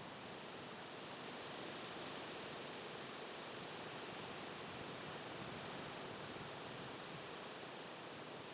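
Steady, even rushing noise with no distinct events, swelling slightly in the middle.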